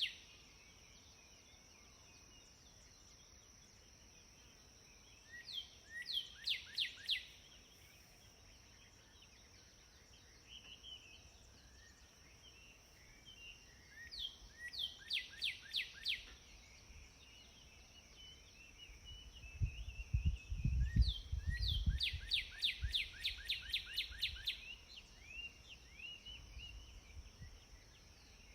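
A songbird singing three bursts of rapid, quickly falling whistled notes, the last one longest, over a steady high insect-like hum. A low rumble comes in about two-thirds of the way through.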